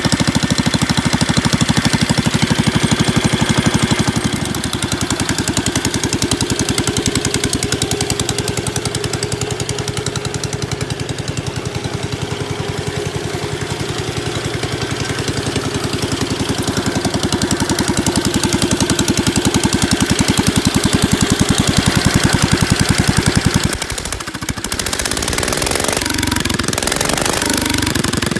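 Ford engine running with a rapid, even firing beat. About 24 seconds in, the sound changes abruptly.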